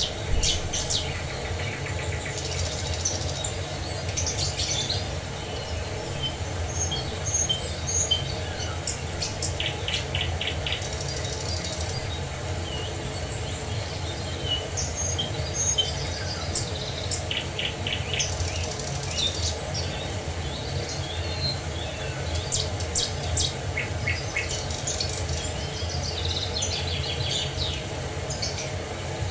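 Several songbirds chirping and trilling in short phrases, over a steady low rushing of falling water.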